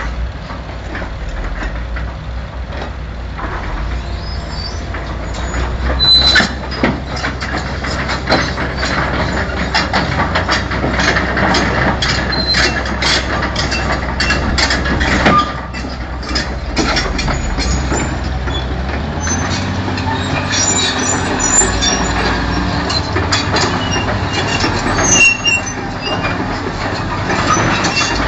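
Tracked CAT excavator driving off a low-loader trailer: a diesel engine running steadily under many clanks and knocks from the steel tracks, with a few short metal squeals.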